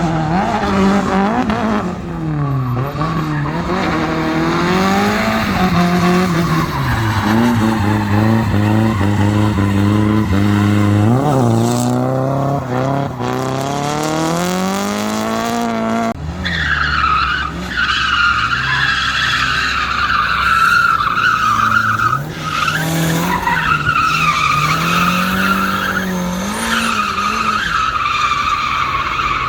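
Drift car engine revving up and down, its pitch rising and falling repeatedly. About halfway through, a sustained tyre squeal comes in over the engine as the car slides, easing off briefly once or twice before carrying on.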